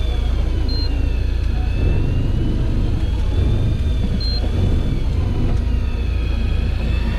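Fishing boat's engine running with a steady low rumble, under a high whine that slowly rises and falls. A short electronic beep sounds twice, about three and a half seconds apart.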